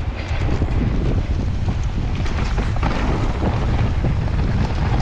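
Strong wind buffeting the microphone of a handlebar-mounted phone on a mountain bike riding into the wind: a steady heavy low rumble with light clicks and rattles from the bike on the trail.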